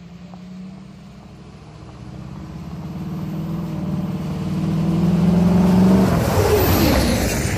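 Straight-piped 4.6-litre DOHC V8 of a Mustang SVT Cobra with its mufflers deleted, the exhaust note building steadily louder for about six seconds, then falling in pitch and level.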